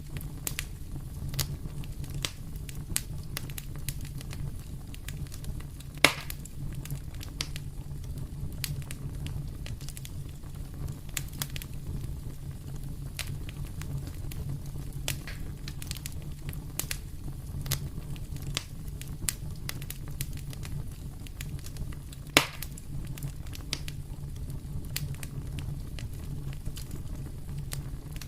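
Wood fire burning in a fireplace: a steady low rumble with frequent small crackles and two sharp, louder pops, about 6 seconds in and near 22 seconds.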